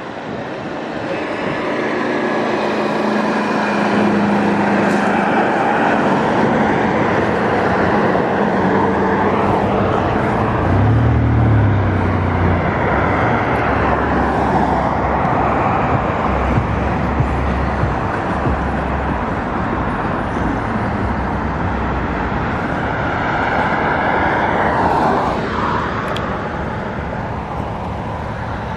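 Steady road and traffic noise heard while riding an e-bike, with motor vehicles passing; a deeper vehicle hum comes through about eleven seconds in.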